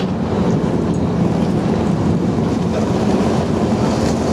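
Type 94 amphibious mine-laying vehicle under way with its engine running at a steady low drone, mixed with rushing wind and water noise.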